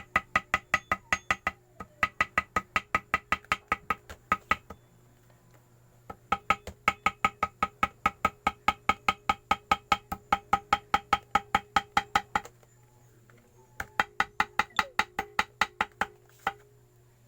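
Small hammer tapping gasket material against the edge of a motorcycle engine case to cut out a gasket. The taps come rapidly and evenly, about five a second, each with a short metallic ring, in runs of a few seconds with short pauses between.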